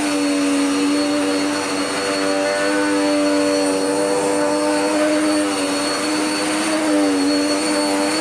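Dirt Devil Power Max Pet vacuum cleaner running steadily on a rug, a loud motor whine with a thin high-pitched tone above it; the pitch sags slightly now and then as it works.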